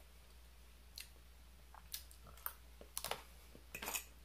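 Faint, close-up chewing of a mouthful of salad: soft, wet mouth clicks about once a second, coming a little quicker near the end.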